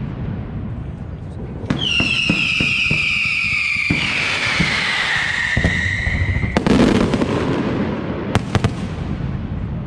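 Fireworks display: crackling and scattered bangs, with a high whistle that slowly falls in pitch for about five seconds. Near the middle a louder rushing burst breaks in, followed by a couple of sharp bangs.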